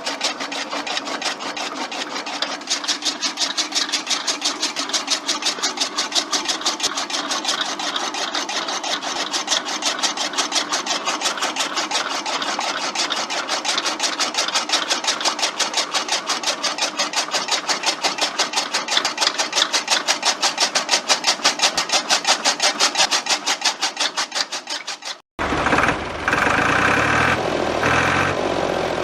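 A small motor-driven DIY mini chaff cutter running, with a fast, even clatter. It cuts off suddenly near the end, and a louder, rougher machine noise takes over.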